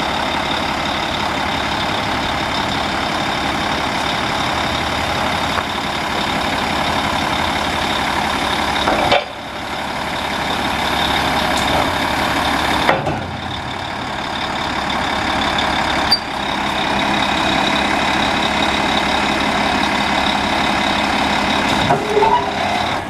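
Volvo VHD roll-off truck running steadily, a high whine held over the engine noise, with a few brief drops in level and clicks along the way.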